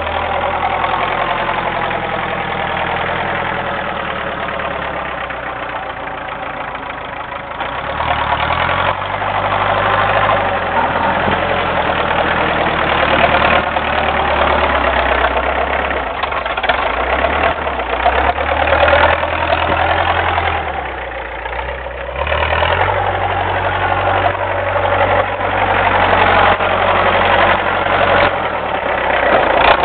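Diesel engine of a homemade doodlebug tractor running while plowing heavy wet snow, its revs rising and falling several times.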